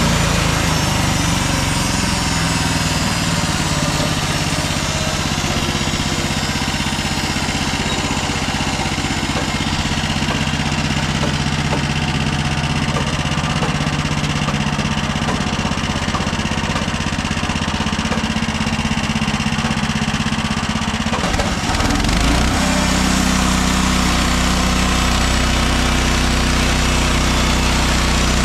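Gas engine of a MechMaxx SM32 band sawmill running steadily. Its note dips and shifts briefly about 21 seconds in, then settles again.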